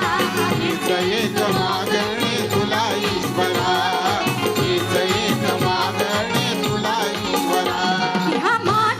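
Live Konkani Jakhadi folk song: a shahir singing over a fast, steady hand-drum beat with percussion.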